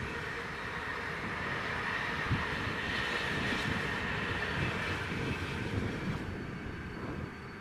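A freight train rolling past on the rails, its wheels giving a steady rumble with a faint clickety-clack, fading away near the end.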